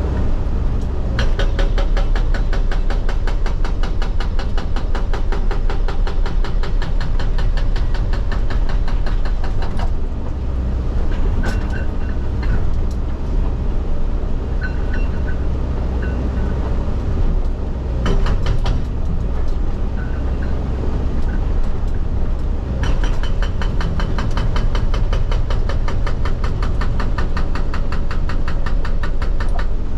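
Excavator-mounted hydraulic rock breaker hammering in rapid, evenly spaced blows over the steady run of the excavator's engine, heard from the operator's cab. The hammering runs for most of the first ten seconds, stops, comes back briefly, then resumes for the last seven seconds or so.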